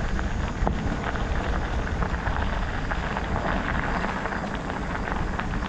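Steady rush of wind buffeting the microphone, with the rolling noise of bicycle tyres on the trail, while riding along at speed.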